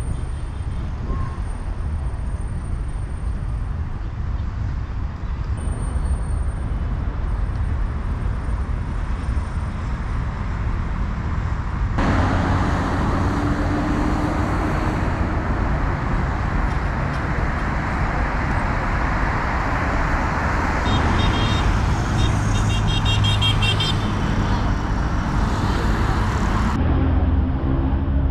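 City street traffic: a steady rumble of car engines and tyres, louder from about halfway through.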